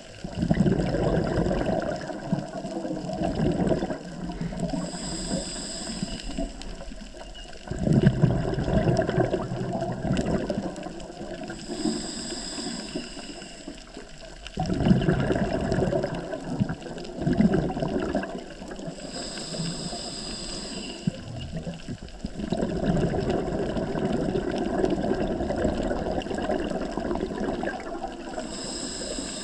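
A scuba diver breathing through a regulator underwater. Four long bursts of exhaled bubbles rumble and gurgle, and each is separated by a short hiss of inhalation through the regulator.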